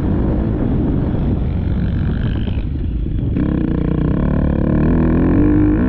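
Motocross dirt bike engine under way, mixed with wind rush on the microphone. About halfway through the engine note comes through clearly and climbs in pitch as the throttle opens.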